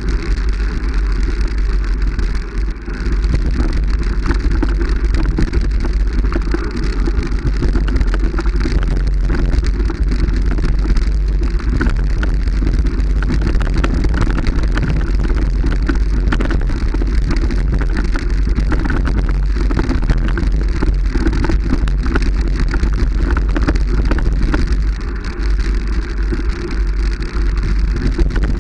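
Steady vehicle running noise with wind buffeting the microphone, loud and unbroken, dipping briefly about three seconds in and again near the end.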